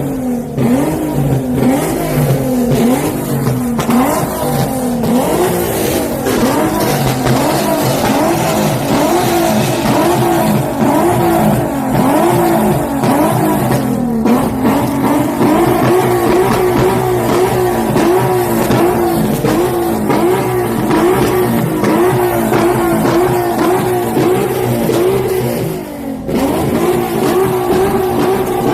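A car engine revving up and down over and over, about once a second, then held at steady high revs with a slight waver, dipping briefly near the end.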